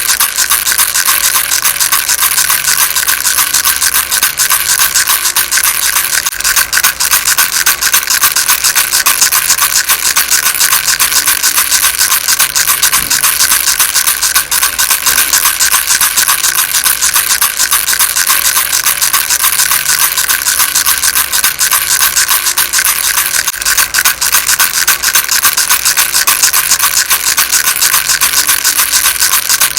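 Baby rattle shaken without pause: a dense, steady rattling of many tiny beads, bright and hissy, with no breaks or changes.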